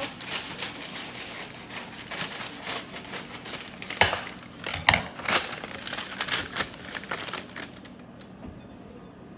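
Knife cutting through dough and clicking and knocking against the board or plate beneath, in a run of quick irregular taps that stops about eight seconds in.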